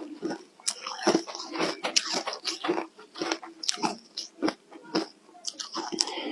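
Ice being bitten and chewed close to the microphone: a string of sharp, irregular crunches with short pauses between them.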